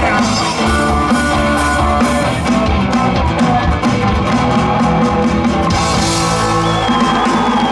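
Live rock band playing, with guitar and a drum kit, loud and continuous.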